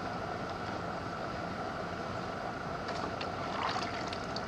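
Steady mechanical hum, with a few short scratchy strokes about three to four seconds in: 2000-grit sandpaper on a pad rubbed back and forth across a plastic headlight lens.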